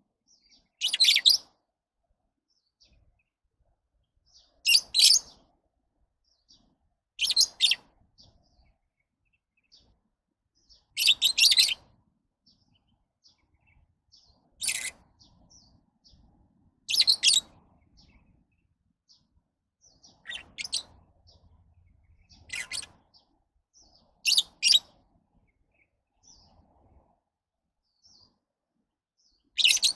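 Lovebirds giving short, high-pitched chirps: about ten bursts of half a second or so, coming every two to four seconds with quiet between.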